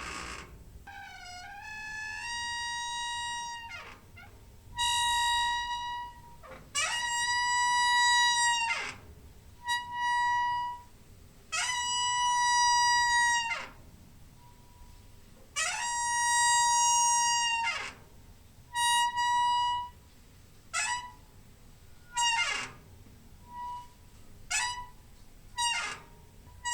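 A squeaky door hinge creaking over and over: long, high squeals of one to two seconds each that slide up in pitch at the start and down at the end. Near the end come quicker, shorter squeaks.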